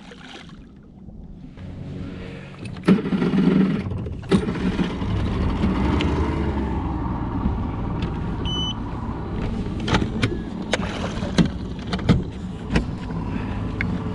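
A vehicle engine running under way, a steady low rumble with rushing noise that builds up over the first few seconds. Scattered knocks and a short electronic beep about halfway through sound over it.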